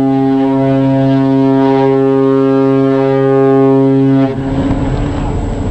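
Ship's horn sounding one long, deep, steady blast that stops about four seconds in.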